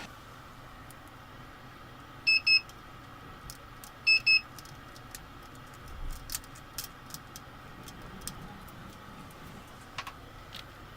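An electronic beeper sounding two quick double beeps about two seconds apart. A few light clicks and taps follow.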